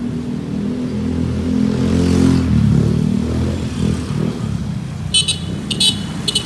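A motor vehicle's engine running past close by, loudest about two seconds in, followed near the end by three short high-pitched horn beeps.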